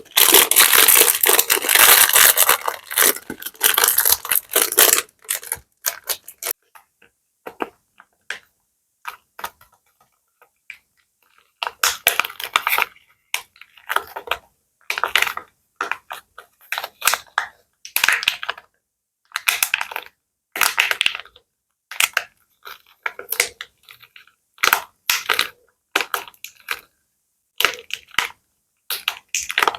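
Plastic bag crinkled and crumpled by hand in close ASMR recording: a dense, loud stretch of crackling for about five seconds, then after a quiet spell, short crinkly squeezes about once a second.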